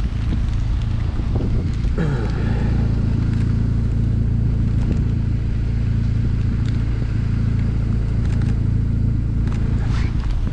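A car engine idling steadily, with an even low hum.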